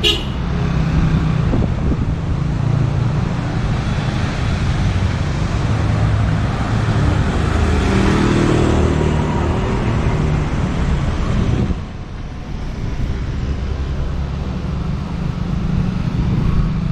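Street traffic with a motor vehicle's engine passing close, swelling to its loudest about eight seconds in, then dropping off sharply near twelve seconds.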